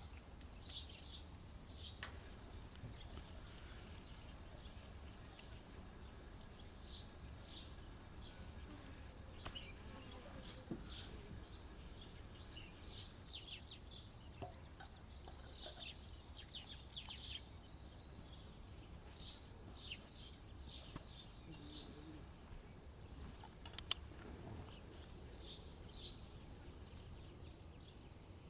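Faint outdoor ambience of birds chirping, many short high calls scattered throughout, over a low steady background hum. A single sharp click stands out near the end.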